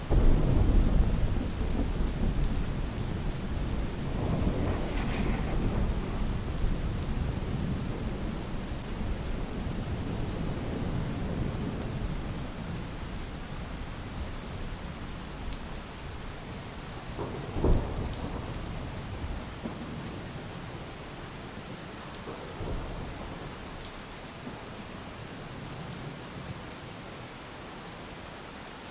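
Steady rain falling, with thunder: a loud rolling rumble right at the start that fades over several seconds, another rumble a few seconds later, and a sharper clap about two-thirds of the way through.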